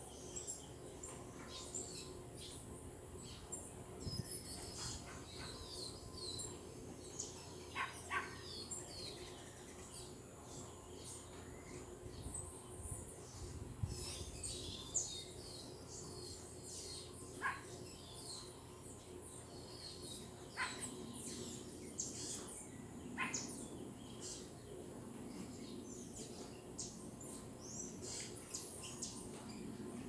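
Wild tropical birds chirping and calling, many short high calls overlapping throughout, with a few sharp clicks in between.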